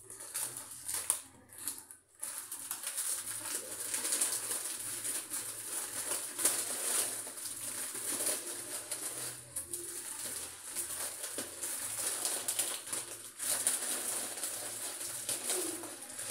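Food frying in hot oil in a wok over a gas burner, a continuous crackly sizzle as it is stirred with a spatula.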